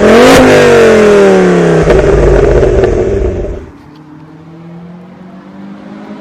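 Ford Focus ST engine and aftermarket exhaust, loud under revs, its pitch falling steadily for about three seconds. A little over three and a half seconds in it turns much quieter, to a low steady note that slowly picks up again.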